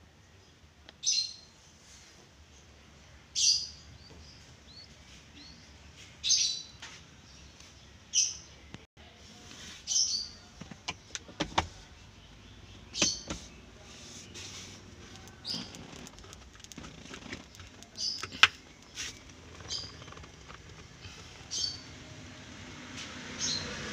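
A bird chirping over and over, one short high call every two seconds or so, with a few sharp clicks or knocks between calls in the middle of the stretch.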